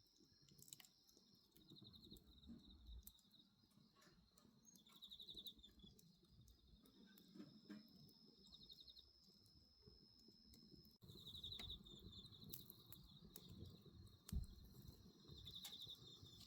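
Faint crickets chirping: a steady high trill with short pulsed chirps every few seconds, over the soft crackle and pops of a wood bonfire.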